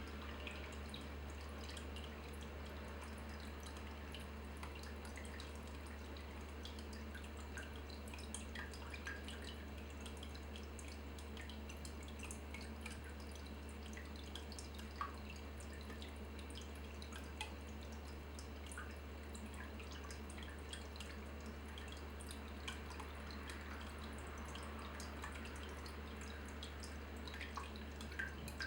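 Water dripping steadily, with many small scattered ticks over a low steady hum.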